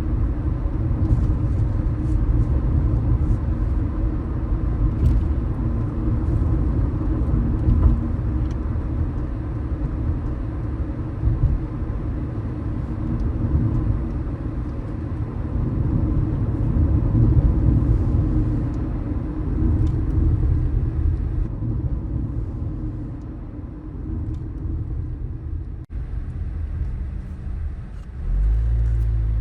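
Car driving on city streets: a steady low rumble of engine and tyres on the road. It eases off for a few seconds past the middle, with a short click, then grows stronger again near the end.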